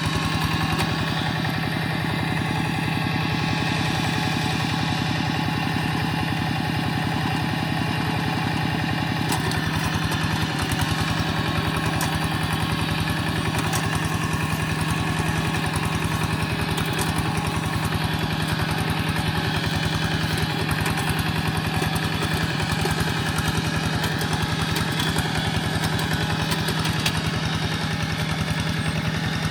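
Quick G1000 walking tractor's engine running steadily at an even speed while the tractor pulls a moldboard plough through wet soil.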